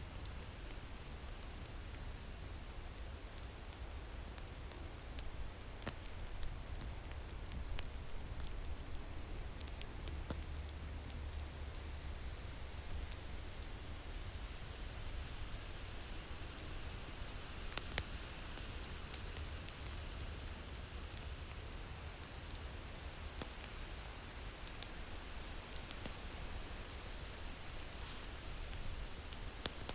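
Crackling wood fire over a steady winter wind: a constant low windy hiss with scattered sharp pops and crackles from the fire.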